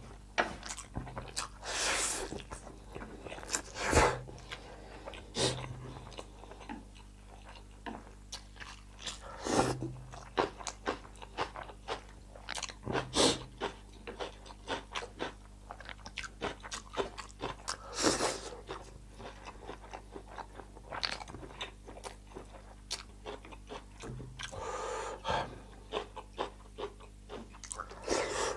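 A person chewing spicy instant noodles close to the microphone, with irregular wet smacks and clicks and a handful of louder mouth sounds.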